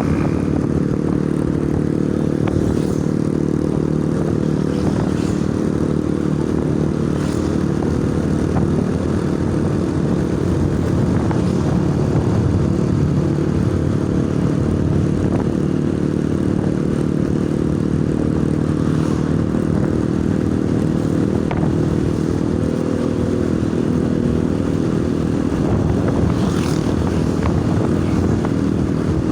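Honda Supra Fit New motorcycle engine running steadily at idle through an aftermarket JRM exhaust, with a fairly fierce exhaust note.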